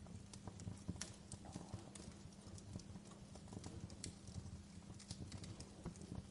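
Wood fire crackling in a fireplace: irregular sharp pops and snaps, a louder one about a second in, over a low steady rumble of flames.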